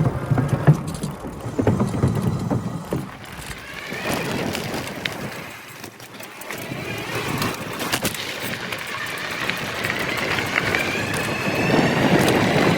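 Electric bike being ridden over rough ground: rattling and knocks in the first few seconds, then a motor whine that rises in pitch twice as it climbs.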